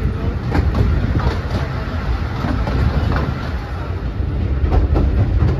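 Narrow-gauge heritage railway carriage running along the track, heard from on board: a steady low rumble of the wheels with scattered clicks and clacks.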